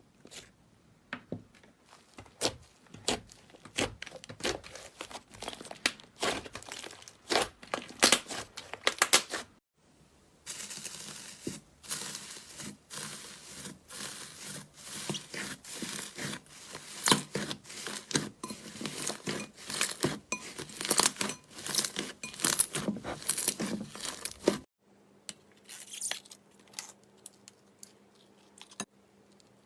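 Slime being squeezed and stretched by hand, with dense crackling and popping of air bubbles. It runs in three stretches that cut off suddenly, and the last few seconds are quieter, with sparse pops over a faint steady hum.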